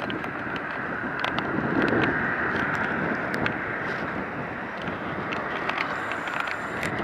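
Steady rushing jet noise of a Boeing 747-400 on approach, mixed with wind buffeting the microphone and scattered light clicks.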